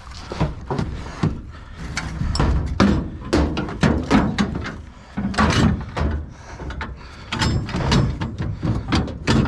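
Irregular knocks, thuds and clatter of scrap items being handled and moved about, many hits in quick succession.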